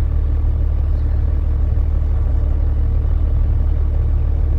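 Steady low rumble of a truck on the move, with no change in pitch or level.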